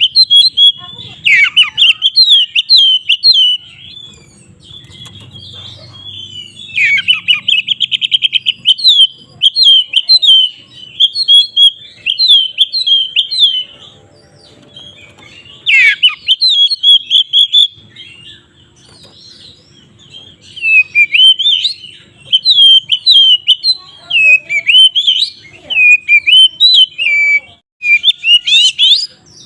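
Oriental magpie-robin (kacer) in full, loud open song: runs of quick sweeping whistled notes repeated phrase after phrase, with a fast trill about seven seconds in and a few short pauses. It is the kind of song used as a lure to stir other magpie-robins into singing.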